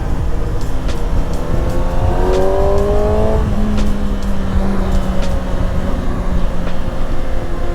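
Kawasaki ZX-6R's 636 cc inline-four engine under way, with heavy wind noise on the rider's microphone. About two seconds in, the engine revs rise briefly in pitch, then it settles into a steadier, lower note.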